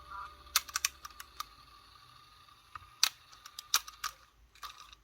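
Irregular sharp clicks and taps of small tools and parts being handled while a cassette Walkman is worked on, some coming in quick little clusters.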